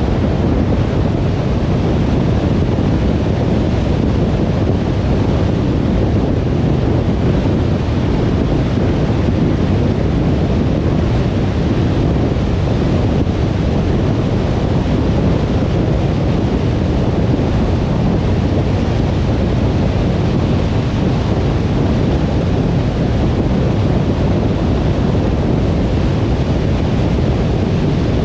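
Steady road noise of a car on the move: an even roar of tyres and wind, with no changes or separate events.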